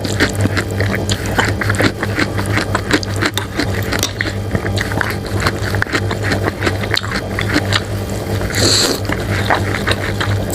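Close-miked mukbang eating sounds from bakso cuanki meatball soup: continuous chewing with rapid irregular wet smacks and clicks over a steady low hum, and a short hiss near the end.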